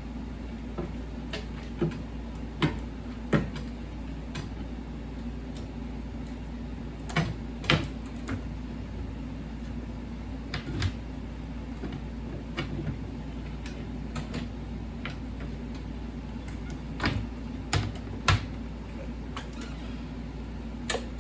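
Scattered sharp clicks and knocks of parts being handled while an IGT S+ slot machine's button panel is put back together, over a steady low hum from the powered machine.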